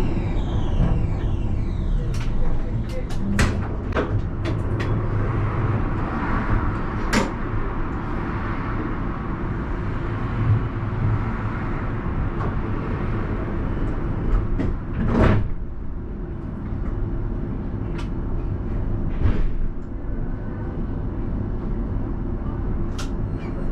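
Alstom Citadis tram with the steady low hum of its equipment, broken by scattered clicks and knocks that fit its doors working at a stop.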